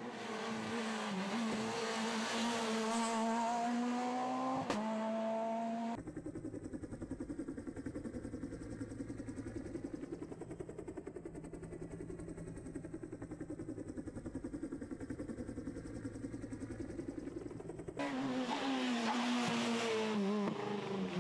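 Rally car engine at speed, the revs rising and falling with gear changes. About a third of the way in, the sound cuts to a lower, rapidly pulsing engine note for about twelve seconds. Near the end it switches back to the rising and falling revs.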